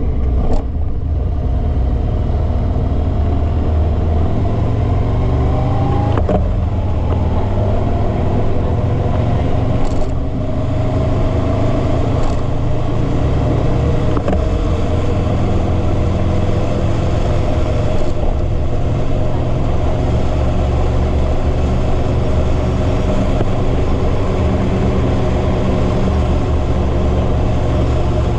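Motorcycle running steadily at road speed, its engine note rising slightly a few times.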